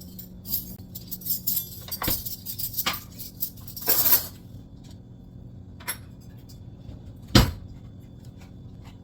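Clinks and knocks of household objects being handled, several in quick succession in the first few seconds and one loud knock about seven seconds in, over a steady low hum.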